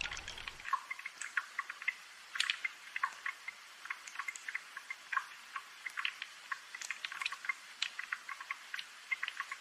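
Rain dripping: a steady, irregular patter of single water drops ticking and plinking over a light hiss of rain.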